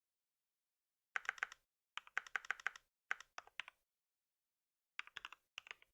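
Computer keyboard typing in bursts of rapid keystrokes, starting about a second in, with short pauses between bursts.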